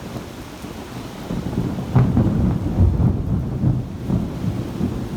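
Thunder over steady rain: a sharp crack about two seconds in, then a heavy, uneven rumble rolling on.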